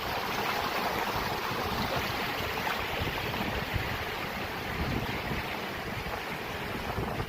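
Rushing water, a steady hiss, with wind buffeting the microphone.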